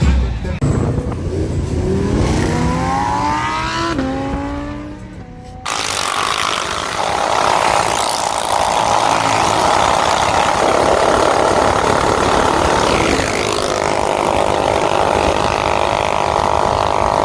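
Minibike engine revving up in rising sweeps and dropping back about four seconds in, then, after an abrupt cut, running steadily at high revs.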